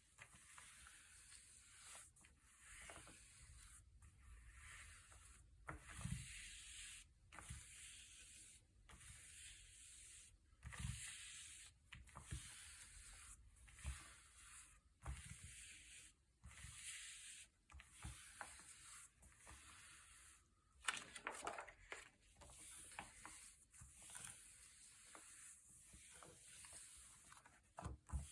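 Thick glossy paper pages being turned and handled, a faint papery rustle and rub with a few louder turns at about 11 and 21 seconds in.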